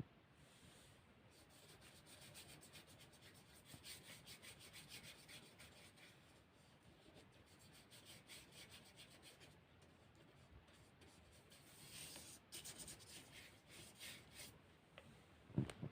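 Faint paintbrush strokes on watercolour paper: quick, repeated rubbing in three spells of a few seconds each. A sharper knock comes near the end.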